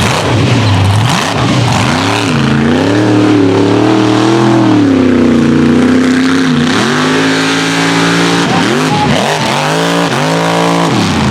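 Mega truck's big engine revving hard through a mud run, its pitch holding high and wavering, then rising and falling quickly again and again near the end.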